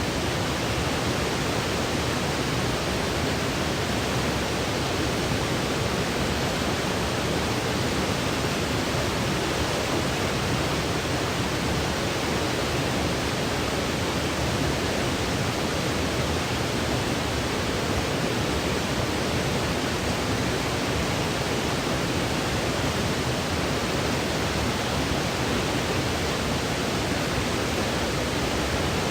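Steady generated white noise: an even, unchanging hiss with no breaks or changes.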